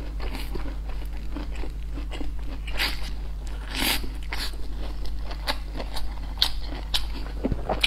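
Close-miked eating sounds: biting into and chewing a soft flatbread wrap filled with a stir-fried vegetable dish, as a run of irregular wet mouth clicks and smacks, loudest around three and four seconds in.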